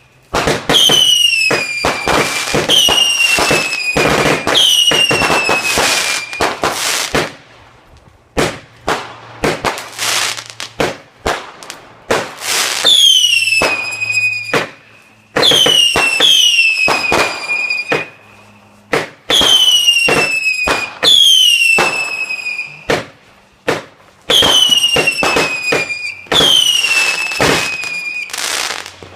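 A homemade 250 g firework cake firing in volleys: repeated short whistles that fall in pitch, mixed with sharp bangs, and smaller scattered pops in the pauses between volleys.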